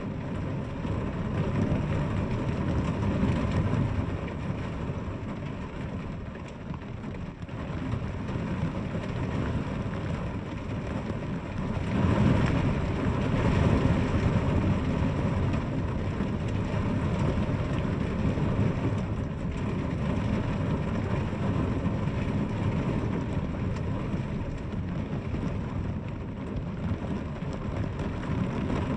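Steady rain falling, with a deep rumble underneath; it swells louder for a few seconds about twelve seconds in.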